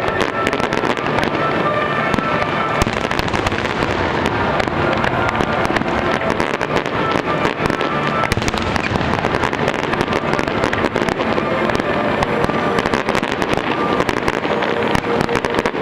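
Aerial fireworks display: a dense, continuous run of shell bursts and crackling, with music playing underneath.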